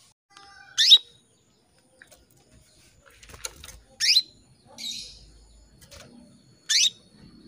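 Female canary in breeding condition calling for a male: three short, loud, rising chirps spaced a few seconds apart, with fainter chirps between them.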